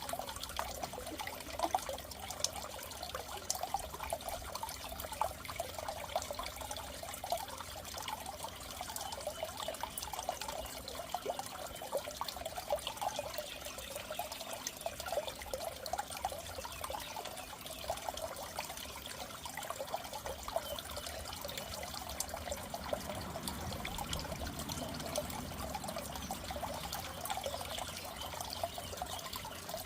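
Water in a goldfish aquarium trickling and bubbling steadily, with a low hum underneath.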